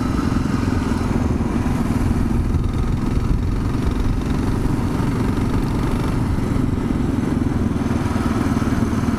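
Kawasaki KLR 650 single-cylinder four-stroke engine running steadily while the motorcycle rides along, with road and wind noise mixed in.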